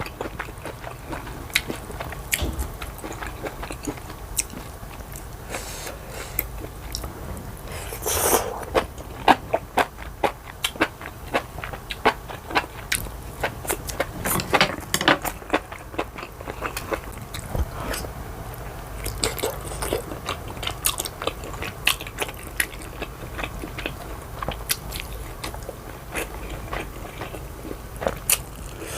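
Close-miked eating sounds: a person biting and chewing food, with many quick sharp clicks and crunches throughout and busier, louder stretches about eight seconds in and again about halfway through.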